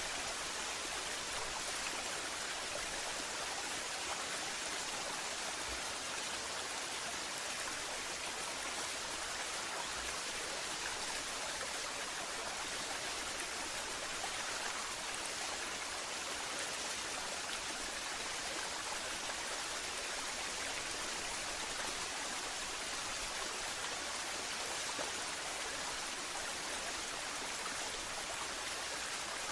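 Waterfall: a steady, unbroken rush of falling water with an even hiss.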